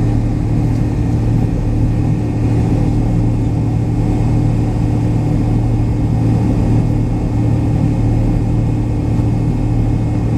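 Steady low cabin hum inside a McDonnell Douglas MD-83 airliner, heard from a seat near the tail where the engines are mounted, with a constant drone and no rise or fall in pitch or loudness.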